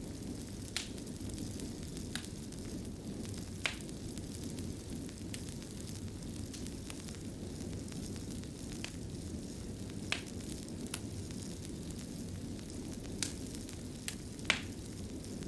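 Log fire burning in a fireplace: a steady low rumble with irregular sharp crackles and pops, a few louder pops near the end.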